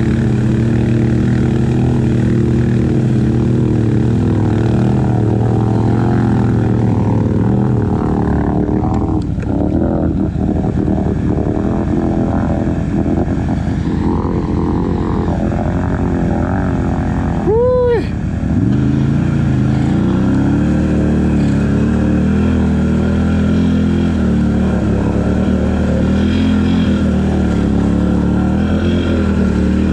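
ATV engine running steadily as the quad rides the trail, its pitch shifting as the throttle changes. About eighteen seconds in there is a brief sharp rise and fall in pitch.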